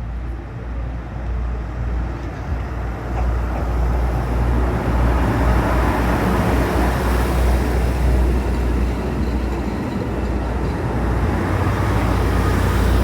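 A train running past at a station, its low rumble and wheel noise building over the first few seconds and then staying loud.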